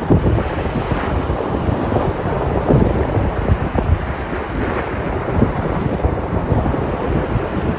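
Sea surf: waves breaking and washing in a steady rush with small louder surges, with wind buffeting the microphone as a low rumble.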